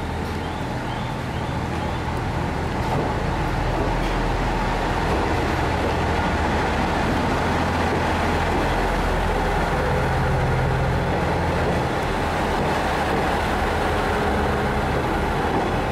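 JR East KiHa 100 series diesel railcar pulling into the platform and running close past, its diesel engine giving a steady low drone under the noise of its wheels on the rails. It grows a little louder about three seconds in as it comes alongside.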